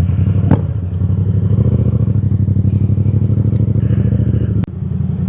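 Yamaha FZ-07's parallel-twin engine idling steadily just after starting. Two clicks cut through it, a faint one near the start and a sharper one near the end.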